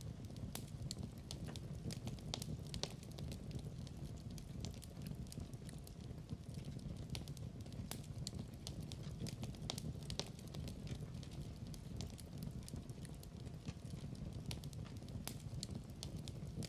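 Fire burning in a fireplace, crackling: many irregular sharp pops and snaps over a steady low rumble of flames.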